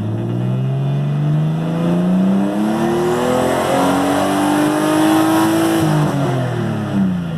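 Car engine being revved: the pitch climbs slowly and steadily for about five seconds, holds briefly, then drops back toward idle near the end.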